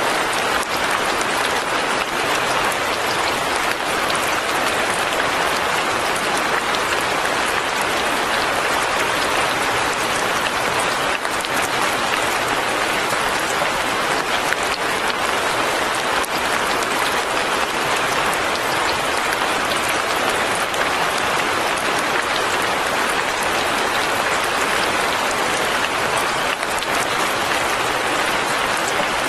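Rain falling steadily, a dense, even patter that never lets up.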